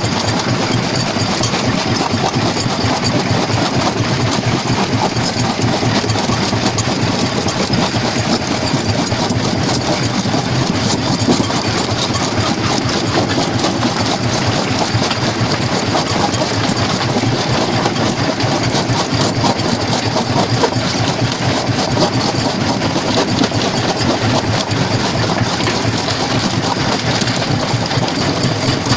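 Stone jaw crusher running: a steady machine drone with a dense, continuous clatter of rock being crushed.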